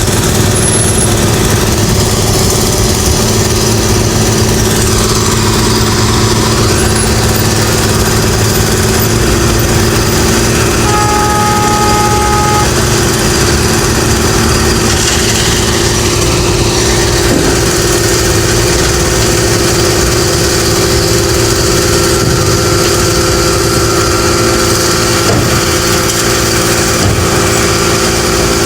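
Diesel engines of road construction machinery and passing traffic running steadily. A short two-note tone sounds once near the middle.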